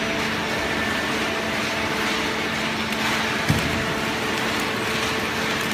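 Cardboard baler conveyor line running with a steady mechanical hum and rumble, with one short thump about three and a half seconds in.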